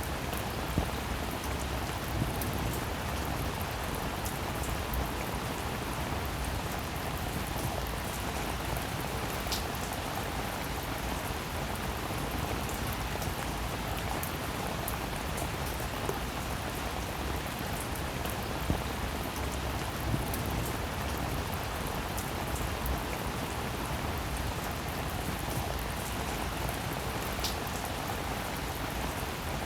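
Rain falling steadily, with now and then a single drop landing in a sharp tick.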